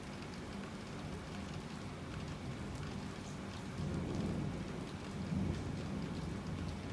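Heavy rain falling steadily, with scattered drops ticking, and a low rumble of thunder that swells about four seconds in and eases off.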